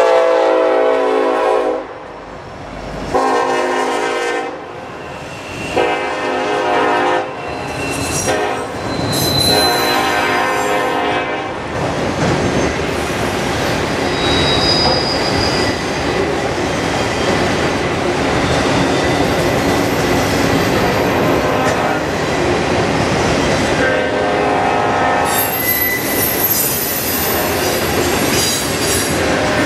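Freight train horn (a Nathan K5LLA on an NS SD70ACE) sounding the long, long, short, long grade-crossing signal over the first ten seconds or so. Under it, autorack and tank cars roll steadily past with wheel and rail noise and some squeal.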